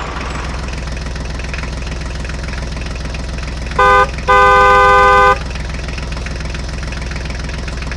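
An engine running steadily throughout, with a horn sounding twice about four seconds in: a short toot, then a longer blast of about a second.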